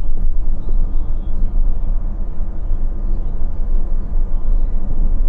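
Scania K450 bus's 13-litre straight-six diesel running steadily under way, a constant low drone with road and tyre noise.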